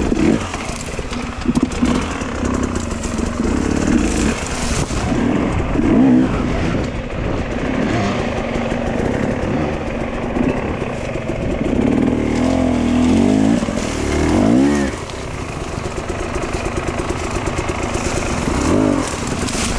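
Dirt bike engine being ridden, revving up and dropping back again and again as the throttle is worked, with a couple of sharp climbs in pitch in the second half.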